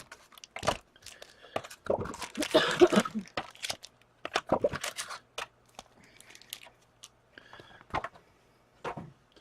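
Hockey card packaging being torn and crinkled, with cards and wrappers rustling and clicking on a tabletop in irregular bursts.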